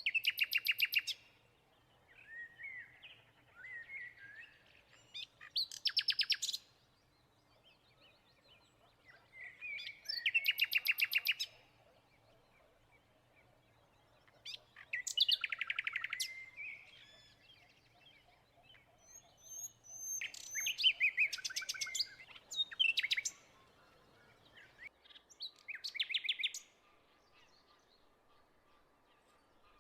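A songbird singing, with a loud phrase of fast, rapidly repeated notes every four to five seconds and softer warbling between the phrases.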